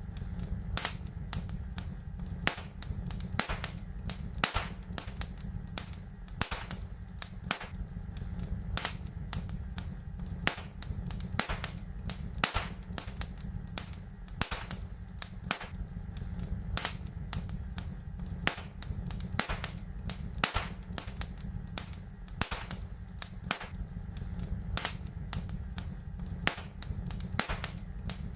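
Fireplace fire crackling: irregular sharp pops, several a second, over a steady low rumble.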